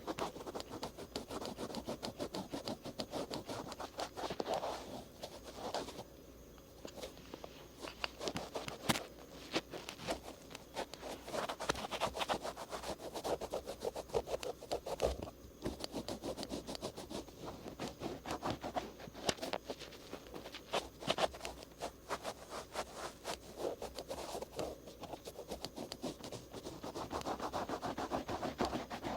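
Cotton swabs rubbing and scratching over the outer ear, a dense crackling scrape in repeated strokes, with short pauses about six and fifteen seconds in.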